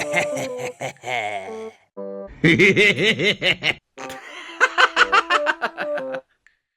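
Bursts of rapid, pulsing laughter, several ha-ha pulses a second, in two runs after some shorter voice-like sounds, with a few short musical notes between them.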